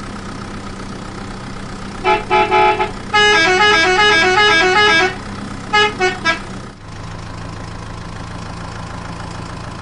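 Vehicle horn sound effects: three short honks, then a horn playing a quick stepping tune for about two seconds, then three more short honks, all over a steady engine-idling hum.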